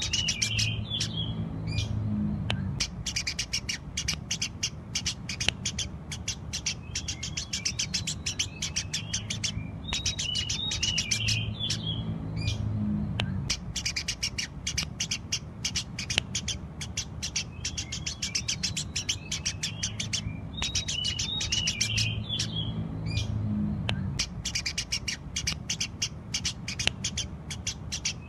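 Eurasian tree sparrows chirping continuously: a dense, unbroken stream of short, rapid chirps, with busier clusters of twittering coming back about every 11 seconds.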